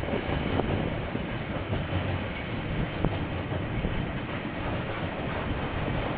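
KiwiRail train rolling past, a steady rumble and rattle of wheels on the rails with a few sharp clacks, heard through a security camera's microphone.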